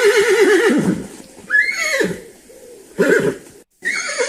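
Horse whinnying: one long neigh with a quavering pitch that falls away about a second in, then a shorter neigh and two brief ones near the end.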